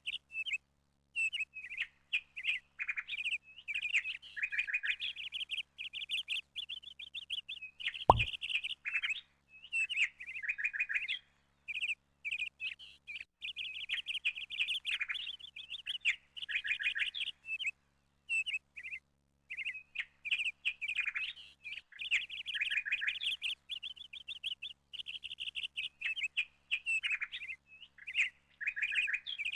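Small birds chirping and twittering almost without pause in quick, high runs of notes. A single sharp click comes about eight seconds in.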